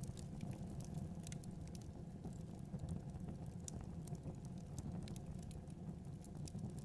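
Wood fire crackling, with scattered irregular pops over a steady low rumble of the flames.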